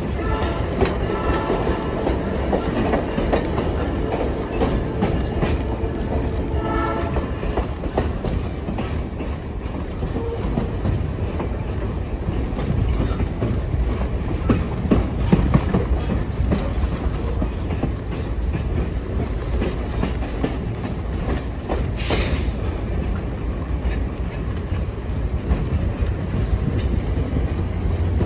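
Passenger train running along the track: a steady rumble with the clickety-clack of wheels over rail joints, and a brief sharp burst of noise about three-quarters of the way through.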